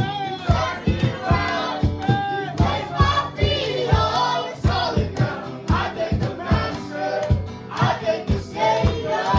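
Live worship band playing with a group of voices singing along over a steady drum beat of about two hits a second.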